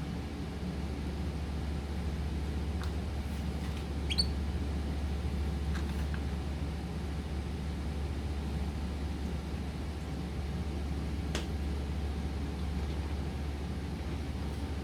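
Steady low electrical or fan-like hum, with a few faint short chirps from pet birds about four seconds in and occasional small sharp clicks.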